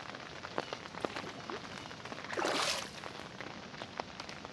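Water dripping and splattering as feet are washed off, with a short louder gush of water about two and a half seconds in.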